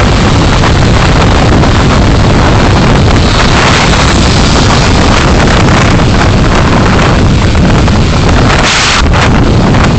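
Car driving noise picked up by a dashcam: a loud, steady rumble of road and wind, with a brief hiss about nine seconds in.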